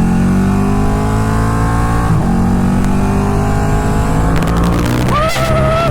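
Sportbike engine running under way, its revs climbing steadily with a brief dip for a gear change about two seconds in. A wavering high tone comes in near the end.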